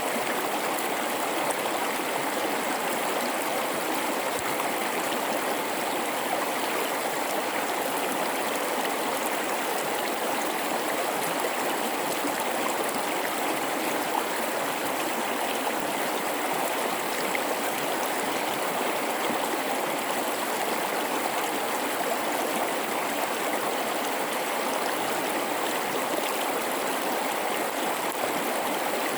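River water flowing steadily through a gorge, an even, unbroken rush of moving water.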